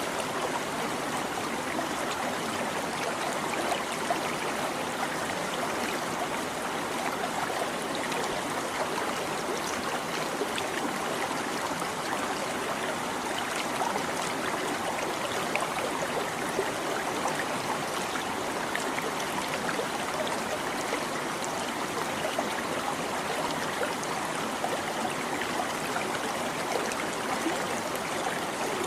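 A small stream babbling and trickling over stones, a steady, even rush of water with small splashes and gurgles.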